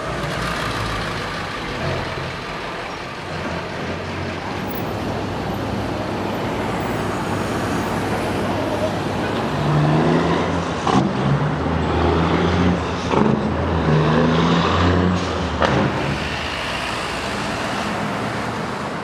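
City street traffic noise, with a heavy vehicle's engine droning low and shifting in pitch in steps through the middle, then fading back into the general traffic.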